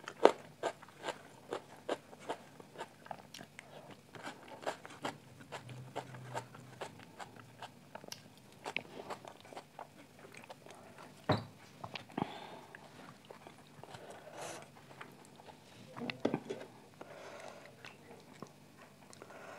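Close-up eating sounds of rice and chicken curry being chewed: quick wet mouth clicks and smacks, about two or three a second, with one louder click about halfway through.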